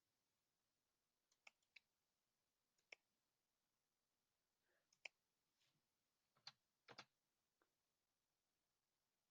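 Faint, scattered computer clicks: a quick run of three about a second and a half in, single clicks near three and five seconds, and another quick cluster around seven seconds.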